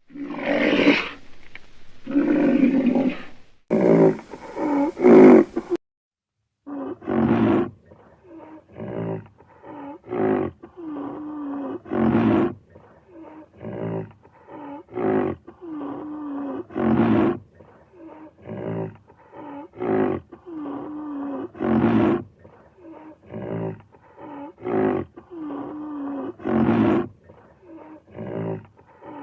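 Rhinoceros calling: a few longer calls in the first six seconds, then after a short gap a steady run of short calls one to two seconds apart, many with a low, falling tone.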